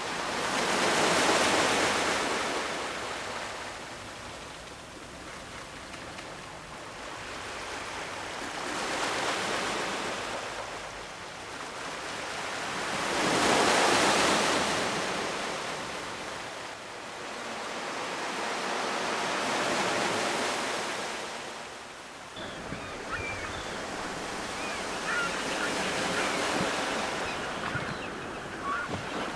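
Ocean waves breaking and washing on the shore, surging and ebbing every few seconds, loudest about two seconds in and again near the middle. From about three-quarters of the way through, faint crackling ticks run under the wash.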